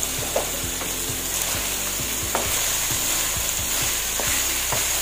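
Shrimp and ground pork sizzling steadily in a hot pan as they are stir-fried, with a spatula clicking and scraping against the pan now and then.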